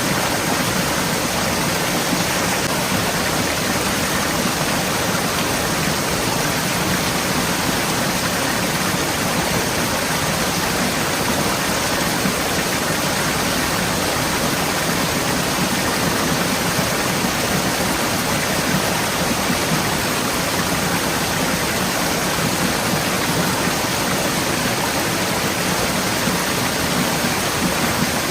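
Forest stream flowing steadily over rocks, a continuous rushing of water with no breaks.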